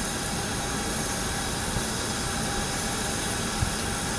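Jet aircraft engines running steadily, an even rushing noise with faint steady tones that does not change.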